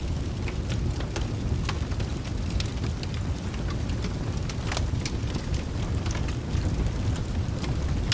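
A wood fire crackling, with irregular sharp pops several times a second, over a steady low rumble of rain.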